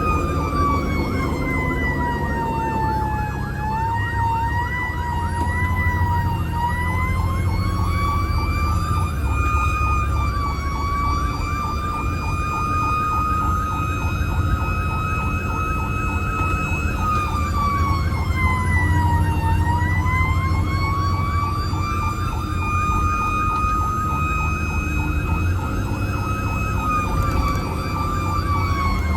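Fire engine siren on a slow wail, its pitch sliding down and back up every several seconds. The truck's engine runs underneath as a steady low rumble.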